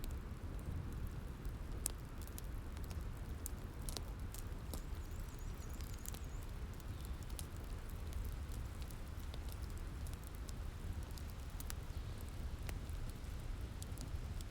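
Wood fire crackling, with scattered sharp pops at irregular moments, over a steady low rumble of a rain thunderstorm.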